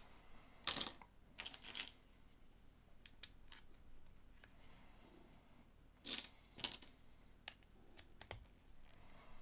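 LEGO plastic pieces being handled and pressed together, making scattered sharp clicks and short rattles. The loudest come about a second in and again around six seconds in.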